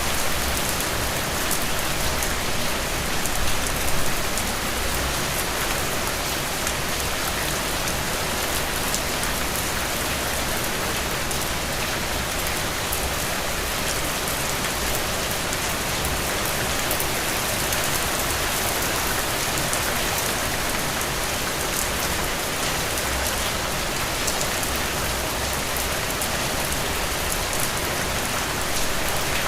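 Heavy rain falling steadily, a dense even hiss of many drops striking a surface, with a couple of brief louder swells about three to four seconds in.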